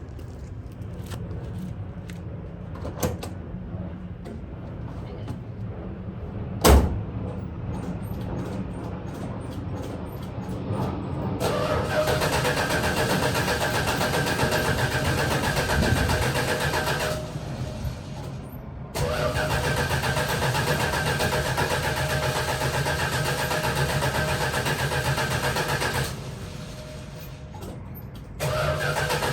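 Cold start of a 1968 Dodge Coronet R/T's carbureted 440 big-block V8 that has sat for months: after a few clicks and a thump, the starter cranks the engine in three long bursts with short pauses between them.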